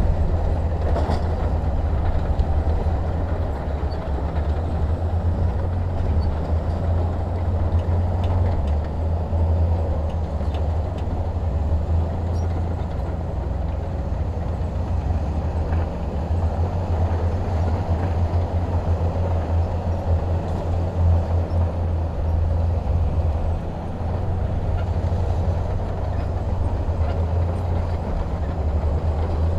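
Heavy diesel machinery running steadily: a constant low engine drone with a few faint clanks.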